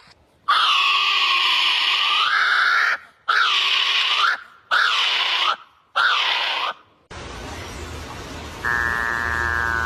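A bird giving harsh screeching calls, four in a row: one long, then three shorter, each dipping and rising in pitch. About seven seconds in a different recording starts, with a steady hiss and low hum, and near the end a tone steps downward in pitch.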